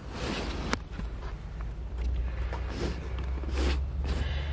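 Car engine idling, heard from inside the cabin as a steady low rumble, with several short rustles and a sharp click about a second in.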